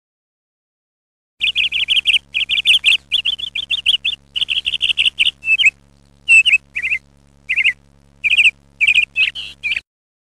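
Birds chirping: fast runs of high chirps starting about a second and a half in, breaking into separate, spaced calls in the second half and stopping shortly before the end, over a faint steady hum.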